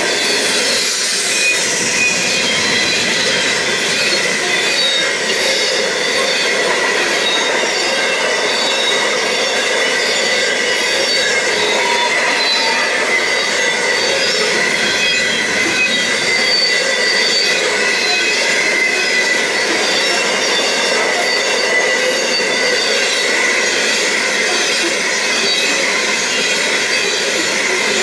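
CBH grain train's hopper wagons rolling past at a level crossing: a steady loud rolling noise of steel wheels on rail, with a continuous high wheel squeal running through it.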